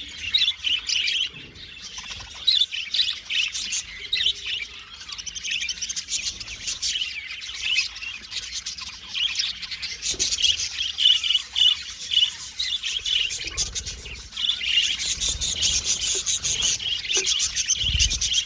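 Several budgerigars chirping and warbling continuously, a dense chatter of rapid chirps.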